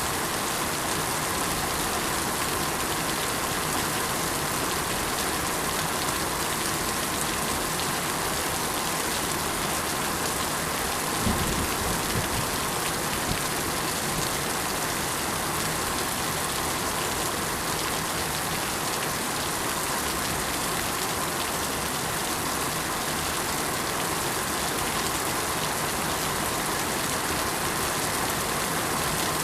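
Steady rain falling, an even hiss of many drops, with a brief low thump about eleven seconds in.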